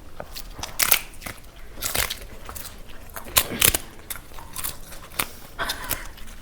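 Crisp food being bitten and chewed close to the microphone: a run of irregular crunches and crackles, about eight over six seconds.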